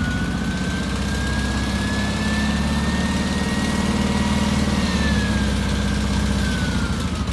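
Mitsubishi Zero fighter's piston engine running steadily, with a thin whine that rises slowly and then falls from about five seconds in.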